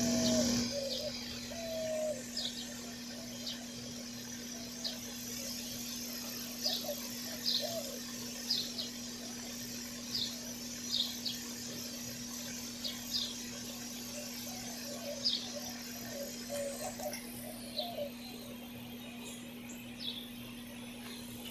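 Birds chirping: short, high chirps repeating irregularly about once a second, with a few lower calls, over a steady low hum.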